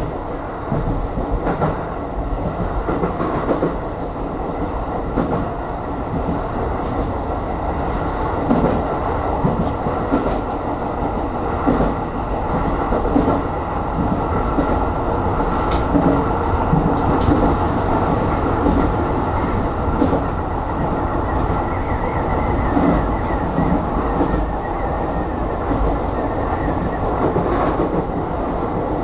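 Electric commuter train running along the line, heard from inside the car: a steady rumble of wheels on rail with scattered clacks over the rail joints. A faint high whine rises in for a few seconds past the middle.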